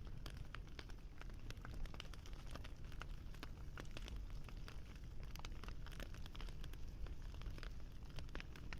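Wood fire crackling: many small, irregular snaps and pops over a steady low background.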